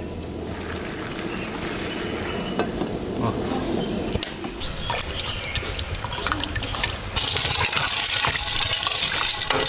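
Water running and splashing, with scattered small clicks and knocks; the flow gets louder about seven seconds in.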